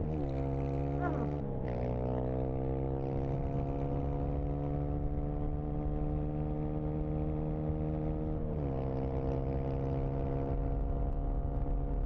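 Dirt bike engine running under way at a steady speed, its note climbing slowly. The pitch dips briefly and picks up again three times: near the start, about a second and a half in, and about nine seconds in.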